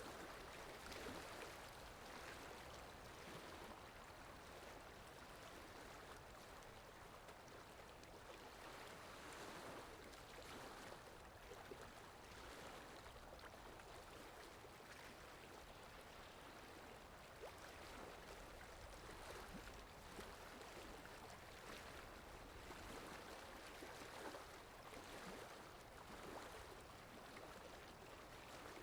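Faint, steady running-water sound effect of a flowing stream.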